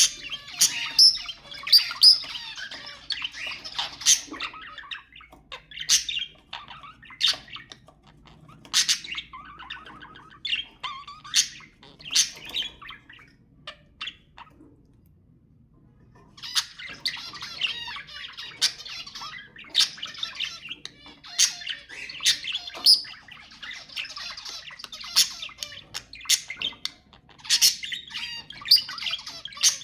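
Budgerigars warbling and chattering, with sharp chirps and squawks throughout. The chatter drops out for about two seconds midway, then picks up again.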